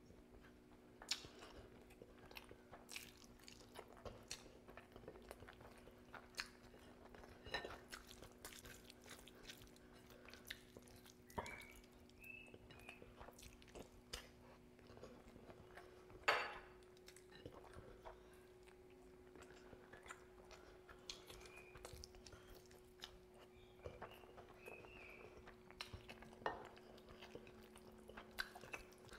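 Close-up eating sounds of a person eating curry with his hand: wet chewing, biting and crunching on chicken feet and meat on the bone, with irregular sharp clicks and smacks, the loudest about halfway through. A faint steady hum runs underneath.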